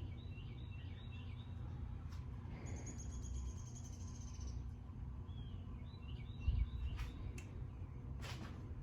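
1981 variable-speed ceiling fan running at its middle speed with a low steady hum, while birds chirp in short repeated phrases; a high rapid trill sounds for a couple of seconds near the middle, and a soft thump comes about six and a half seconds in.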